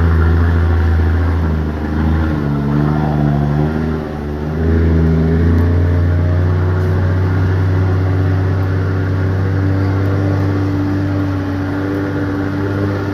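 Heavy truck's diesel engine running loud and low. Its pitch shifts up and down for a few seconds, then settles into a steady drone.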